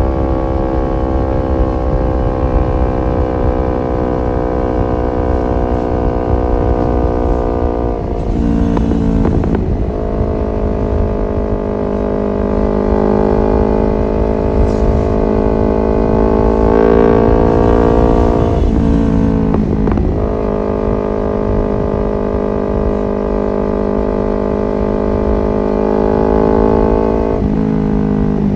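Kawasaki Ninja 250FI's parallel-twin engine running through an aftermarket R9 H2 SS exhaust while riding, holding fairly steady revs. The note dips and picks up again at about 8 s, around 19 s and near the end, and climbs slowly in between. Wind rushes under it.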